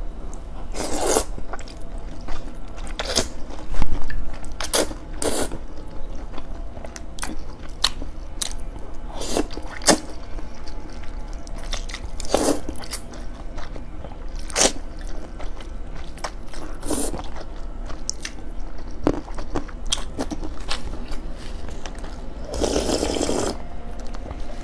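Close-miked eating sounds of someone eating spicy instant noodles: chewing and biting, with irregular louder bursts, the longest near the end.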